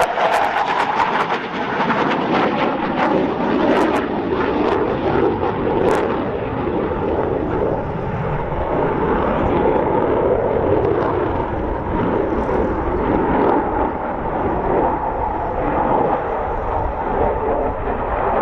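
Loud, steady jet noise from a Dassault Rafale fighter's twin M88 turbofan engines in flight. A scatter of sharp crackling clicks comes in the first few seconds.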